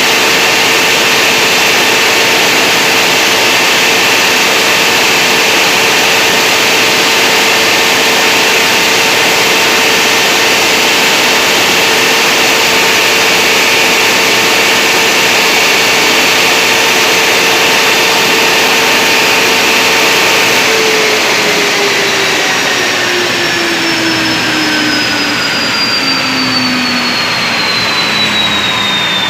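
Generator running loud and steady during a load test, with a held whine over the running noise. About two-thirds of the way through, the whine starts sliding slowly down in pitch and the running noise drops a little but carries on.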